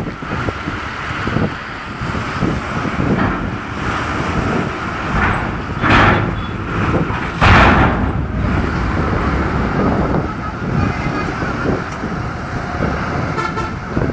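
Road vehicle noise with horn toots, over a steady rumble of wind on the microphone; two louder swells come about six and seven and a half seconds in.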